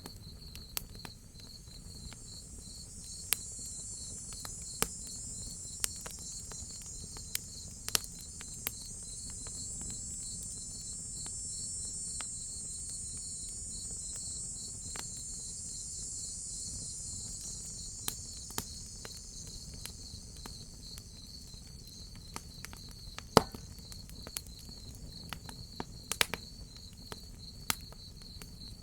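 Crickets chirping in a steady, fast pulsing trill, with a higher insect hiss that swells in the middle and then fades. Scattered sharp pops and snaps of a crackling wood fire break in throughout, the loudest one about 23 seconds in.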